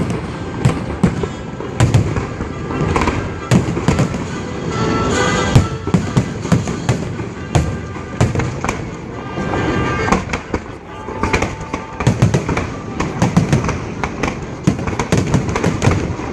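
Aerial fireworks shells bursting in quick succession, several sharp bangs a second with no let-up, heard from close to the launch site.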